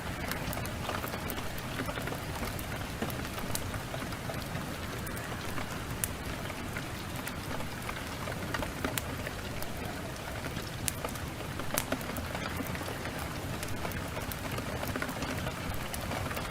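Heavy rain falling steadily, with scattered sharp crackles from a wood fire.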